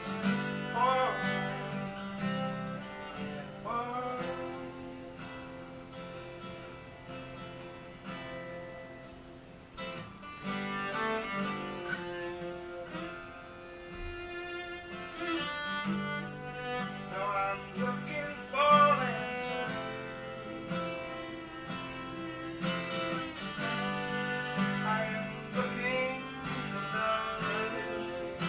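Live acoustic music: a strummed acoustic guitar with a bowed string instrument playing a melody that slides up into some notes.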